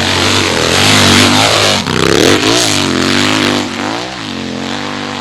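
Hill-climb dirt bike engine revving hard, its pitch swooping up and down several times; it gets quieter about four seconds in.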